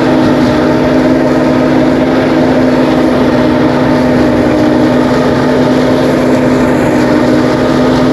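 Engine-driven rice threshing machine running steadily at a constant speed, a loud, even drone.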